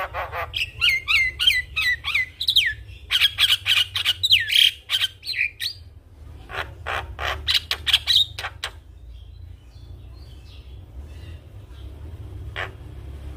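Javan myna singing, a rapid run of harsh clicks and rasps mixed with whistled notes that slide down in pitch. The song is dense for the first six seconds, thins out and goes mostly quiet from about nine seconds in, with one last note near the end. A steady low hum runs underneath.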